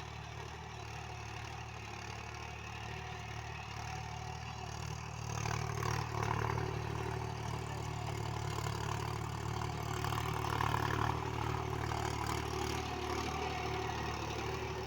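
Mahindra 275 DI tractor's three-cylinder diesel engine running steadily. It grows louder about five seconds in and swells again around ten seconds.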